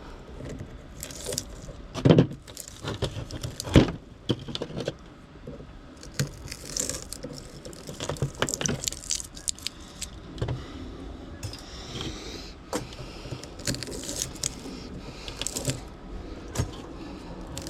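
Loose scrap metal parts clinking and clanking as they are handled, in irregular sharp knocks with two louder knocks about two and four seconds in.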